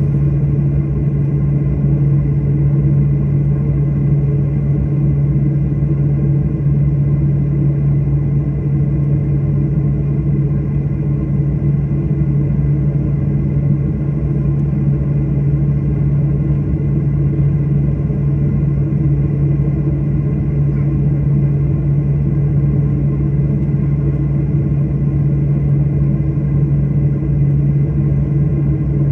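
Steady drone of an airliner's engines and airflow heard from inside the passenger cabin, with a thin, high whine over a deep hum and no change in pitch or loudness.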